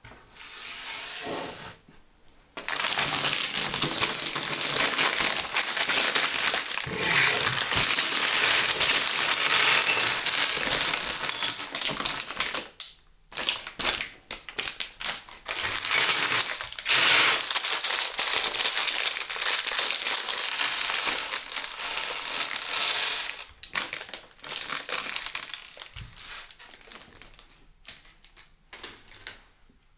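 Plastic LEGO parts bag being crinkled and torn open, with small plastic bricks clattering out onto a surface; the loud crinkling stops a little past two-thirds of the way, leaving sparser clicks.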